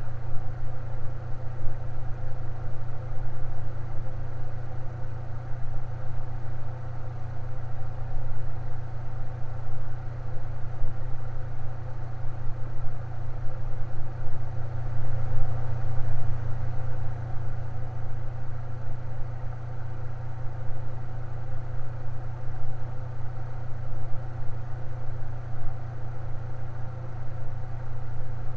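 Electric fan running steadily: a constant low hum with a fainter whir of air above it.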